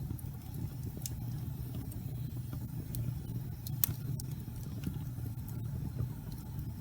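Wood fire burning in a fireplace: irregular crackles and pops over a low steady roar, with a louder pop about four seconds in.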